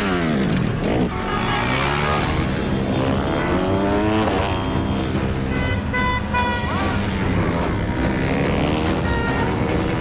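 Motorcycle engine revving hard, its pitch rising and falling again and again as it accelerates and swerves, mixed with a film score.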